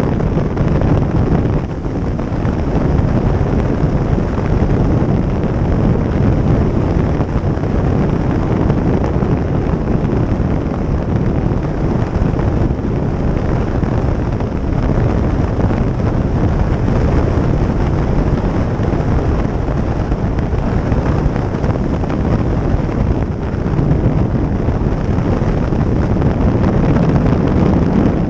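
Wind rushing over the microphone of a moving motorcycle, loud and steady, with the motorcycle's engine and road noise beneath it.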